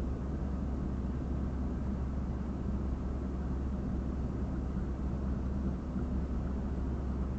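Steady low rumble of a parked car idling, heard from inside the cabin.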